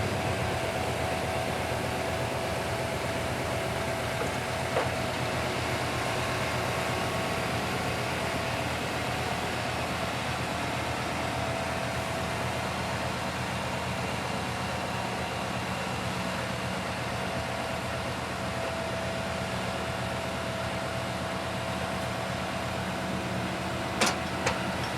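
Scania P280 crane truck's diesel engine running steadily, with a steady whine over the engine note. A single knock about five seconds in, and two sharp clicks near the end.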